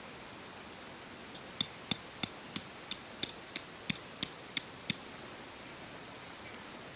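About eleven sharp metallic taps in an even run, roughly three a second, then they stop. A steady hiss of a stream runs underneath.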